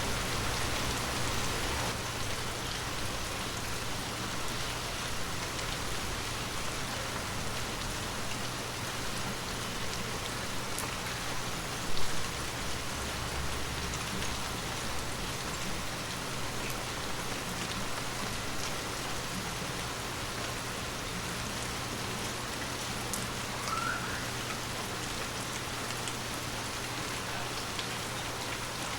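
Heavy rain falling steadily on a hard surface, an even hiss of drops, with one short louder low thud about twelve seconds in.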